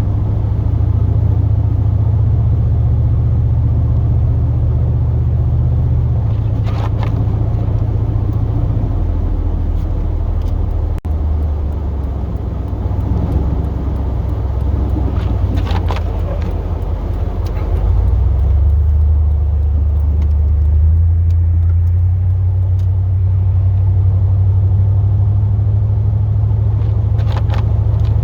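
Pickup truck engine running steadily while driving, a low drone whose pitch drops and rises a few times as speed changes, with a few brief faint clicks.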